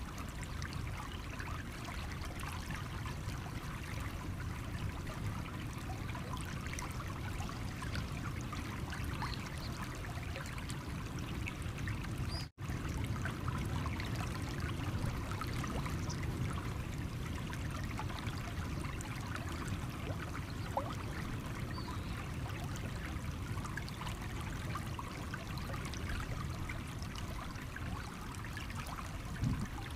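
Small stream trickling and babbling over stones, with many small splashes. The flow is steady, apart from a split-second break about twelve seconds in.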